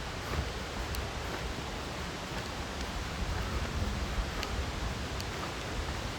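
Steady rushing noise of a nearby creek, with wind rumbling on the microphone and a few faint clicks.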